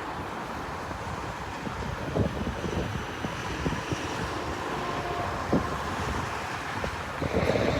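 Jet airliner engines rumbling steadily as an Allegiant plane approaches, with a faint high whine in the middle and wind buffeting the microphone.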